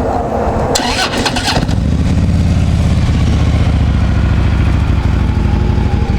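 2014 Harley-Davidson Tri Glide's 103 cubic-inch V-twin being started: the starter cranks briefly and the engine catches about a second and a half in. It then settles into a steady idle through the factory exhaust, running pretty quiet.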